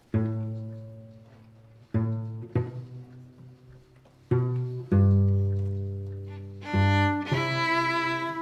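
String choir playing: low strings plucked pizzicato, about five notes in the first five seconds, each ringing and fading away. About seven seconds in, bowed strings enter with sustained, higher parts over the low line.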